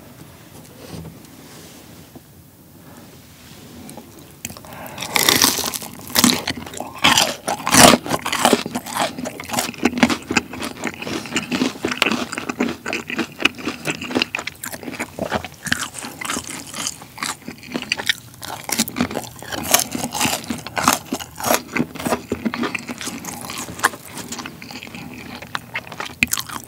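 Crispy battered fried pork (Korean tangsuyuk), dipped in sauce, crunching sharply and repeatedly as it is bitten and chewed. The crunching starts about five seconds in after a few quiet seconds of faint chopstick clicks.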